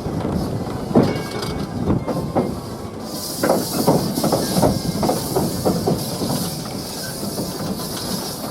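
A steam locomotive's steam starts hissing suddenly about three seconds in and keeps up steadily, over a quick run of knocks and clanks.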